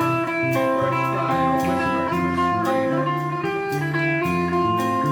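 A live rock band plays an instrumental passage, electric guitar lines over a bass line that changes note every half second or so, with regular sharp drum or cymbal strokes. There is no singing.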